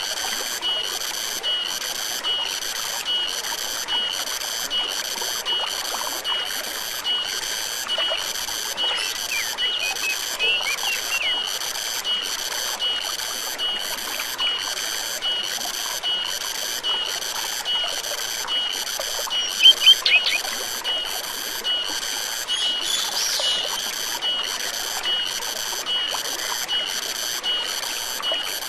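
Forest stream flowing steadily under an even, high-pitched animal call pulsing about three times every two seconds, typical of an insect or frog. A few short bird-like chirps break in, loudest about twenty seconds in.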